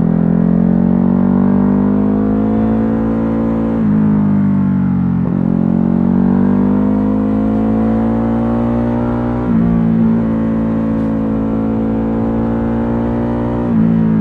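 Ducati Hypermotard 950's L-twin engine pulling under acceleration, its pitch climbing and then dropping suddenly at upshifts about four and five seconds in. It climbs again, jumps up at a downshift near the ten-second mark, and runs fairly steady toward the end.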